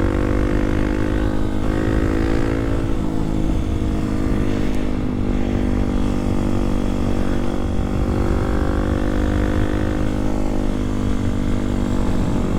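Kawasaki KLX300SM's single-cylinder engine running steadily as the bike rides along, over a low rumble of wind. The engine note climbs a little at the start, dips briefly about three seconds in, then holds steady.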